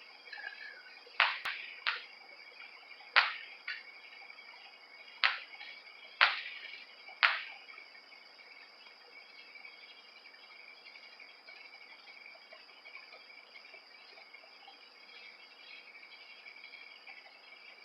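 Fireworks going off: seven sharp bangs with short echoing tails over the first seven seconds or so, the loudest about three seconds in. Night insects keep up a steady high chirring underneath throughout.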